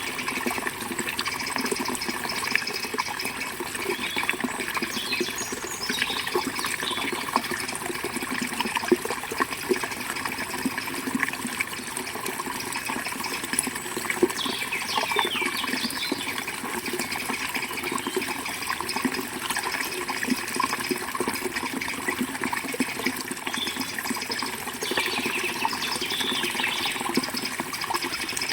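River water flowing steadily, with a few short bird chirps now and then.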